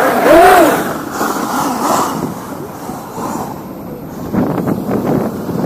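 Electric RC monster truck's motor whining, revving up and back down once near the start, then tyre and driving noise with a few knocks near the end.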